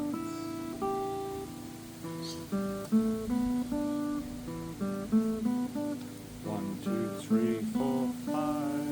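Steel-string acoustic guitar playing a blues lick in E minor pentatonic, single plucked notes and pairs of notes ringing one after another, with a few wavering, bent notes near the end.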